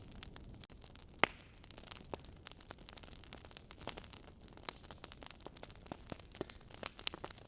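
Wood fire crackling, with many small irregular pops and one louder pop about a second in, over a low steady hiss.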